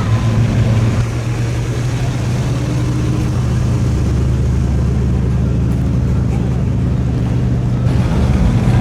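A car engine running with a steady low rumble, holding an even pitch throughout.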